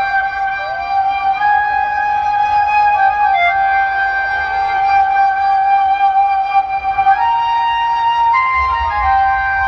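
A flute melody of long held notes stepping from pitch to pitch, played loud through a large festival DJ sound system on test. Deep bass comes in near the end.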